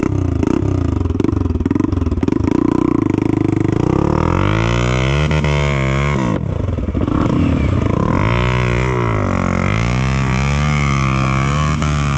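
Trail motorcycle engine revving hard, its pitch rising and falling several times as the throttle is worked.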